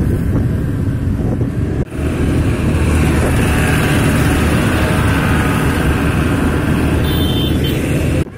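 A large road vehicle's engine running steadily with road noise, a low, even hum. The sound cuts out for an instant about two seconds in, then carries on.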